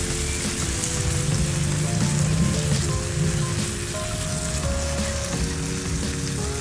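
Corned beef and onions sizzling as they fry in an electric baking pan while being stirred, under background music of held, changing notes.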